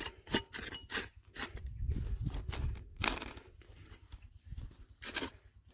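Crunching and scraping of stones and gravel being dug through, with irregular sharp clicks of rock on rock.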